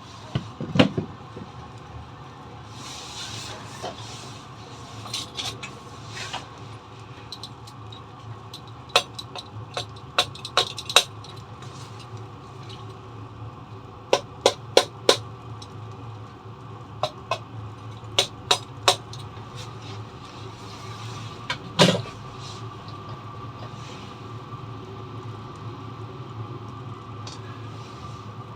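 Steady mechanical hum of a running Chinese diesel parking heater, with sharp clicks and knocks at irregular times, some in quick pairs and runs.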